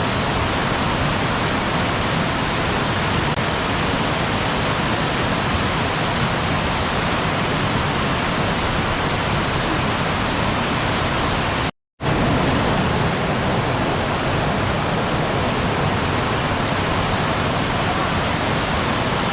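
Steady rushing of a waterfall, cutting out for a split second about twelve seconds in and then carrying on.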